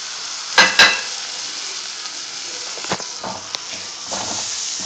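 Tomatoes and spices sizzling in hot ghee in an iron kadai: a steady frying hiss, with two sharp knocks just under a second in and a few fainter ones later.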